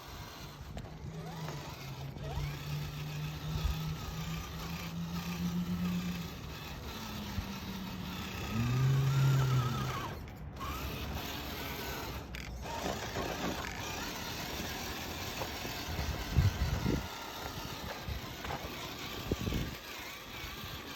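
Electric motor and geared drivetrain of an Axial SCX10 III RC crawler whining as it drives, holding a low steady pitch and then rising and falling with the throttle, loudest about nine seconds in, over scattered clicks and scraping.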